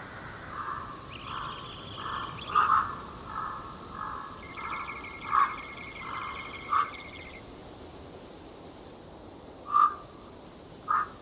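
Wild animal calls in a forest: a run of short repeated calls with two long buzzy trills above them, then, after a pause, three loud single sharp calls near the end.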